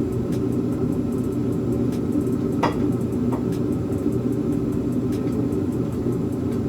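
A steady low mechanical hum that keeps an even level, with one short high squeak about two and a half seconds in.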